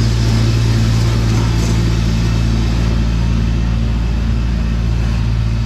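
Tractor engine running steadily while snow blowing, with a constant low hum and an even, unchanging level.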